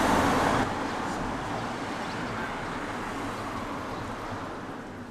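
A passing train: a loud rush of running noise with a low rumble, loudest at the start and fading over several seconds.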